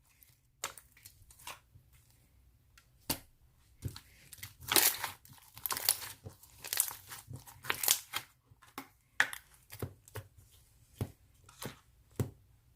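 Avalanche slime being squished and stretched by hand, giving irregular sticky crackles and pops. These are busiest about four to eight seconds in and stop shortly before the end.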